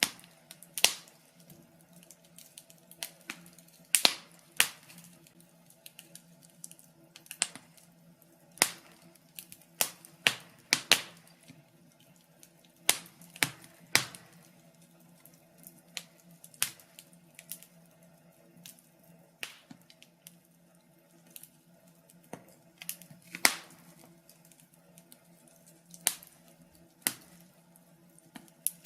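Wood fire crackling in a fireplace: irregular sharp pops and snaps of uneven loudness, sometimes several in quick succession, over a faint steady hum.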